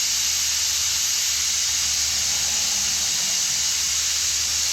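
Steady hiss of compressed air running a pneumatic vacuum/pressure fluid unit as it pushes oil through the oil filter fitting into a rebuilt 3.5 EcoBoost engine, pre-oiling it before first start.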